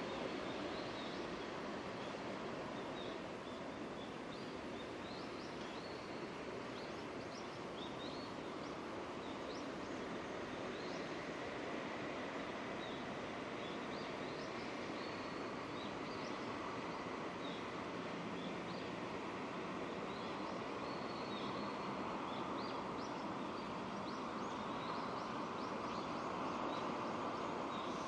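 Steady rain falling, an even hiss, with small birds chirping in short, repeated calls throughout.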